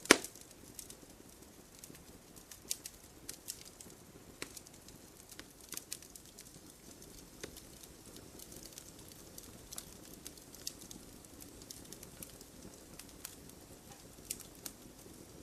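Wood campfire crackling: irregular sharp snaps and pops over a low steady hiss, with one loud pop right at the start.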